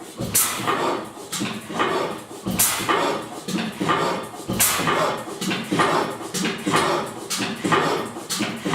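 1897 Crossley 'Otto' 3 NHP vertical hot-tube gas engine running, with a loud exhaust beat about every two seconds amid a steady mechanical clatter.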